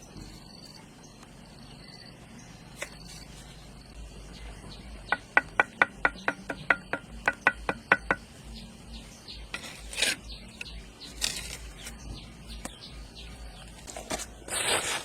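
Faint insect chirping, then a quick run of about a dozen sharp, ringing clinks, about four a second, followed by a few short scraping swishes.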